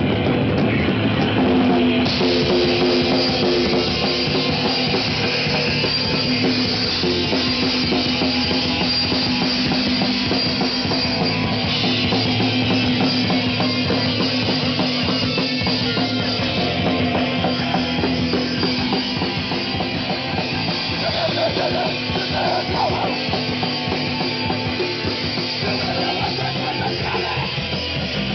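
Heavy rock band playing: a drum kit and electric guitar.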